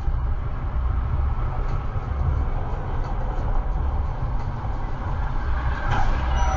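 Steady low rumble of vehicle engine and road noise. Near the end a wavering siren begins.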